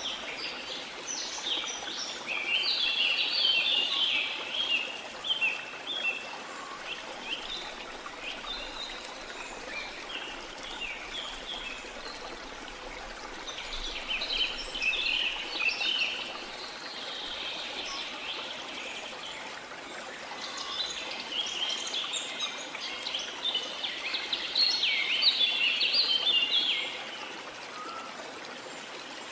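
Steady rushing water of a waterfall with songbirds chirping in rapid bursts of short, high notes, coming in three louder bouts.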